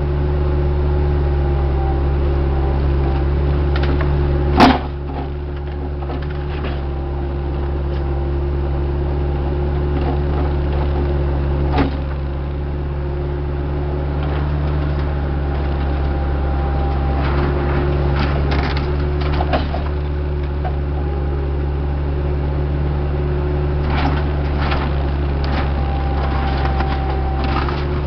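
Diesel engine of heavy earth-moving equipment running steadily, with sharp metallic clanks and knocks now and then. The loudest clank comes about four and a half seconds in, and bunches of lighter knocks follow later.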